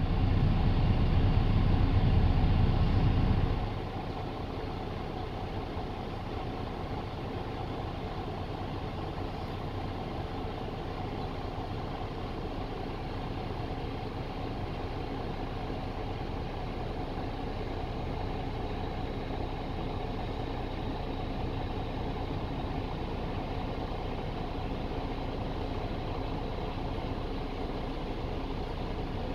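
Car engine idling, heard from inside the car, a steady hum. For the first three or four seconds a louder low rumble sits on top, then it drops away, leaving the even idle.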